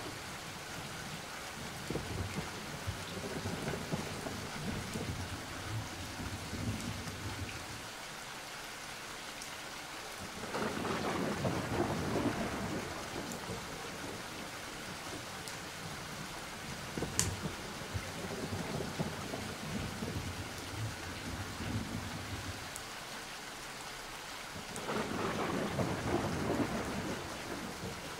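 Steady rain with rolling thunder. Two louder rumbles swell up about ten seconds in and again near the end.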